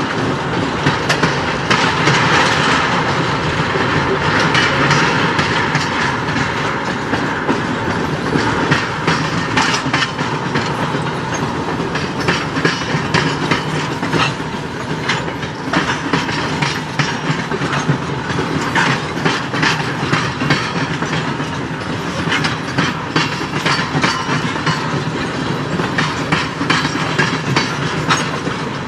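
Freight train tank cars rolling past, their steel wheels clacking steadily over the rail joints under a continuous rumble.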